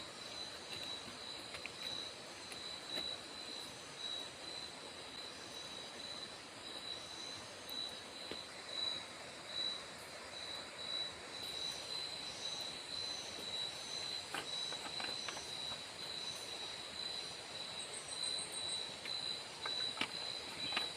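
Forest ambience: insects trilling in a steady, high, pulsing drone over a constant hiss, with a few scattered clicks.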